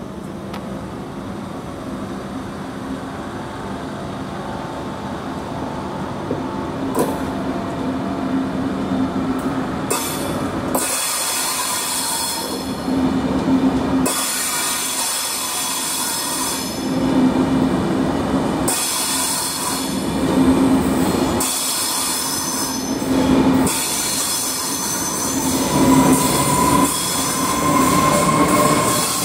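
ČD railjet train pulling out of the station, its coaches rolling past with wheel squeal that comes and goes every few seconds and a few clicks over the rails. Its rear Siemens Taurus class 1216 electric locomotive passes near the end with a rising whine.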